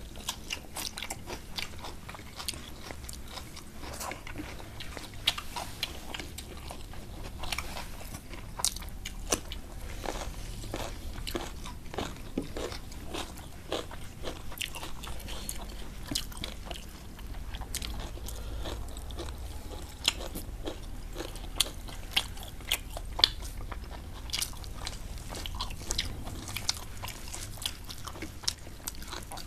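Two people chewing and crunching mouthfuls of rice and curry eaten by hand, with many irregular sharp crunches and mouth clicks.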